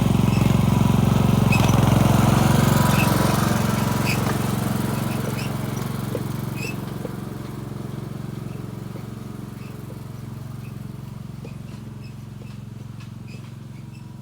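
Craftsman LT4000 lawn tractor's 15 hp Briggs & Stratton engine running steadily under load while towing a trailer of 1,000 lb of sand. It grows steadily fainter from a couple of seconds in, with scattered light clicks over it.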